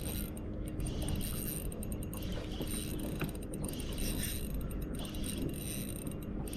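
Fishing reel being wound steadily, its gears whirring as a hooked fish is reeled in.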